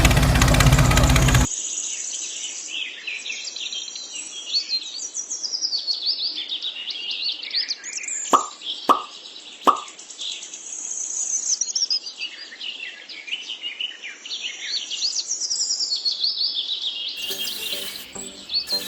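Small birds chirping and singing in many quick high calls, with three short plops about halfway through. A loud noise opens the stretch and cuts off after about a second and a half.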